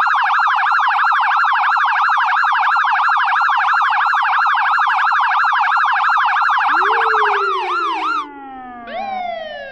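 American police car electronic siren in a very fast warble, many pitch swings a second, slowing about seven and a half seconds in to a yelp of about three swings a second. Just after eight seconds in the siren cuts out, leaving fainter tones that slide down in pitch, jump up once, and fall away again.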